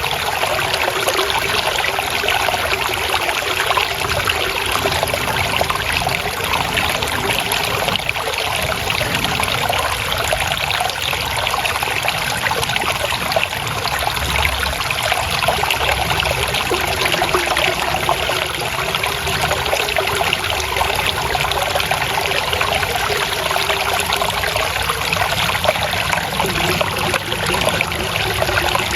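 Shallow stream water trickling and splashing steadily over rocks.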